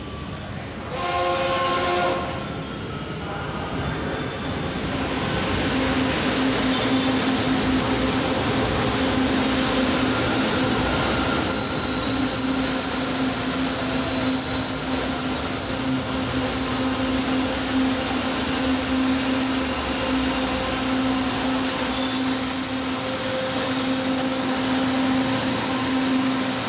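LRT-2 light rail train (trainset 14) sounds a short horn call about a second in, then runs into the station, its rumble building with a steady motor hum. From about halfway it gives a high-pitched wheel and brake squeal as it slows to a stop.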